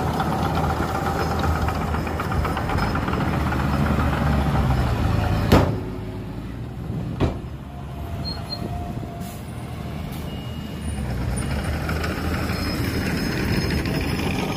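Heavy diesel earthmoving machinery running with a steady low rumble, broken by two sharp bangs about five and a half and seven seconds in. After the bangs the engine sound drops, then builds again near the end.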